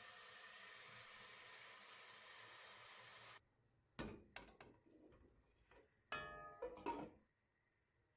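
A steady hiss that cuts off suddenly a little past three seconds in, followed by a few light knocks and, near the end, a short squeaky scrape with more knocks, like household objects being handled and set down.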